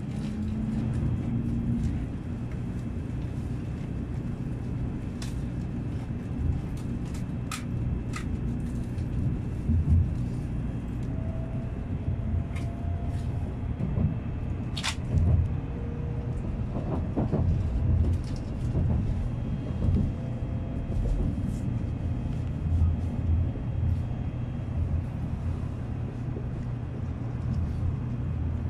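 Cabin noise inside a moving Shinkansen bullet train: a steady low rumble, broken now and then by a few light clicks.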